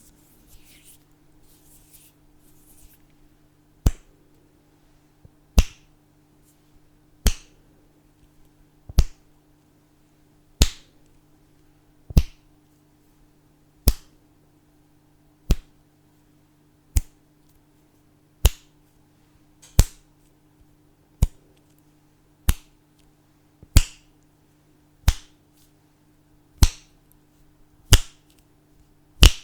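Fingers snapping one at a time at a steady, unhurried pace, about one snap every one and a half seconds. The snaps begin about four seconds in.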